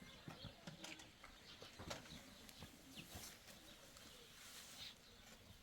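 Near silence: faint ambience with a few soft, short bird chirps and scattered small ticks.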